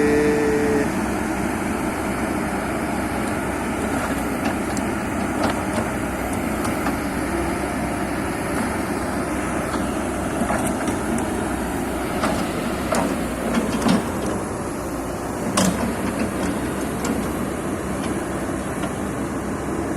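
Steady mechanical running noise of heavy machinery, with a scattered handful of sharp knocks. A short pitched tone sounds right at the start.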